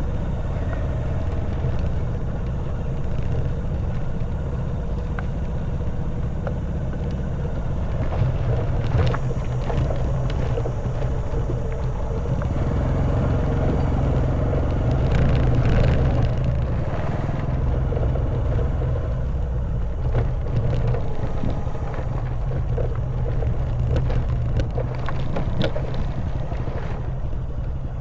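Honda Wave 110cc single-cylinder four-stroke engine running steadily on the move, with wind noise over it. From about eight seconds in, frequent clicks and clatter come from the bike riding over a stony, gravelly trail.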